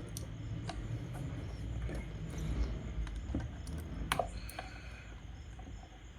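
Light clicks and taps of small plastic parts and tools being handled, scattered irregularly with a sharper cluster about four seconds in, over a low rumble of handling noise.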